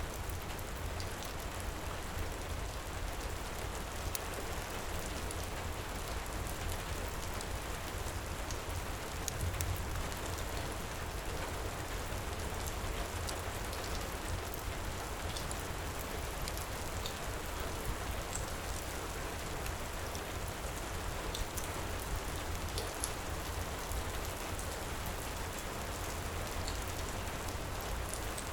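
Heavy rain pouring steadily: a dense, even hiss over a low rumble, with scattered faint ticks.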